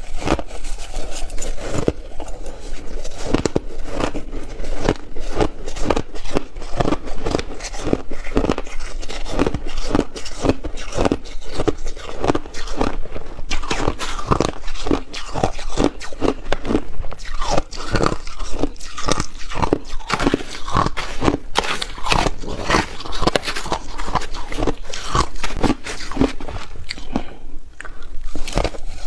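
Ice being bitten and chewed with mouth close to the microphone: a steady run of crisp crunches, several a second, with a short pause near the end.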